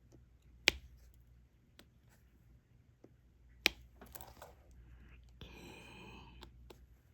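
Diamond painting handwork: two sharp clicks of the drill pen and resin drills, a soft rustle, and about a second of crinkly rattling near the end.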